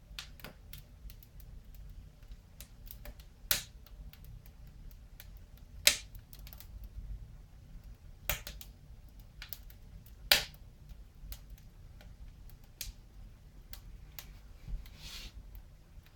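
Wood fire crackling in a fireplace: irregular sharp pops and snaps, several much louder ones scattered through, over a low steady rumble.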